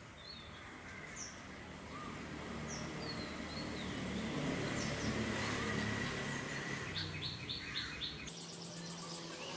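Birds chirping in short, falling high notes, with rapid trilling notes in the last couple of seconds. A low rumble swells up in the middle and stops shortly before the end.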